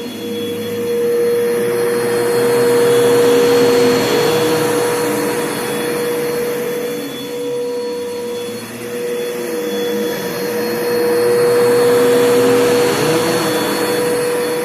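Bissell PowerForce Bagless 6583 upright vacuum cleaner running with its 10-amp motor, a steady whine over a rushing of air. The rush swells and eases twice as it works over carpet.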